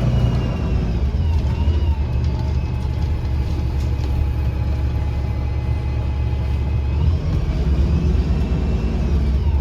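Interior sound of a 2009 Gillig BRT 40-foot diesel bus under way: a deep engine and Voith transmission drone with a high whining tone above it that shifts slightly in pitch about a second and a half in and again near the end.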